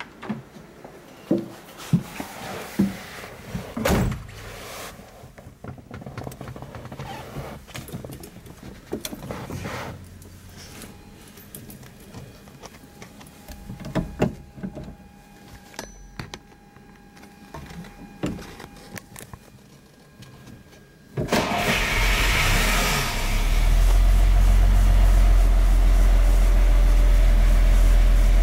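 Mercedes-Benz 300d Adenauer's fuel-injected straight-six being started: about 21 seconds in, after scattered clicks and knocks, the starter cranks for about two seconds and the engine catches, then settles into a steady low idle.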